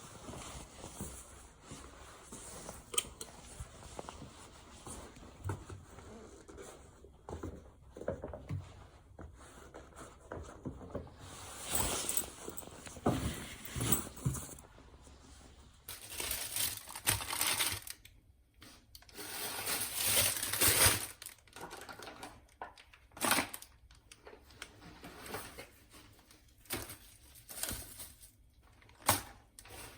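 Crinkling and rustling of packaging as items are handled, with scattered clicks and knocks of things being set down, busier in the second half.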